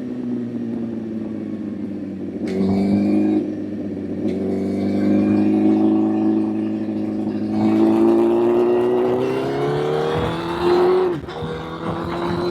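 Honda CBR1000 motorcycle's inline-four engine under way. The engine note falls off at first, then climbs under throttle, breaking and picking up again at several gear changes.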